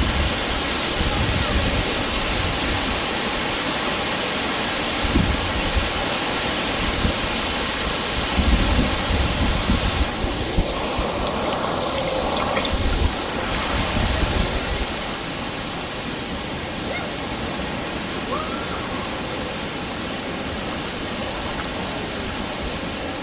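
Waterfall: a steady rush of falling water, with uneven low surges during the first fifteen seconds or so, after which it turns slightly quieter and steadier.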